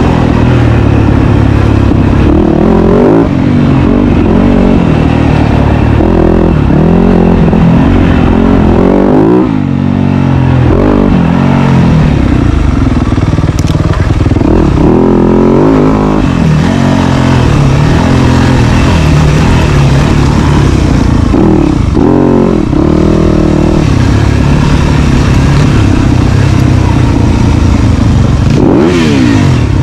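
Dirt bike engine being ridden hard, revving up and dropping back again and again as the throttle is worked and gears change, loud throughout.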